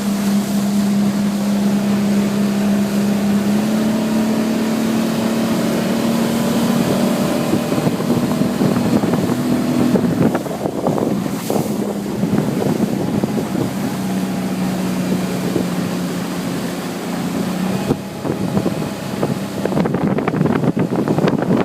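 Mercury 40 hp four-stroke EFI outboard running steadily at about 4,000 RPM with the boat under way, its tone dipping slightly in pitch a few times. Wind on the microphone and rushing water throughout, with the wind louder near the end.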